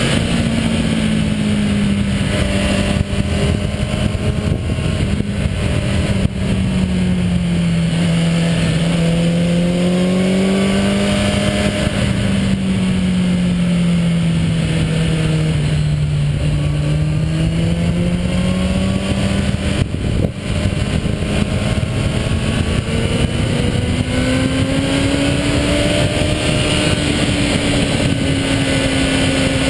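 Motorcycle engine running under way, its pitch rising and falling slowly with gentle throttle changes and no sharp revs.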